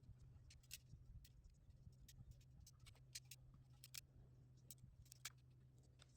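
Near silence: faint, irregular clicks and ticks over a low steady hum.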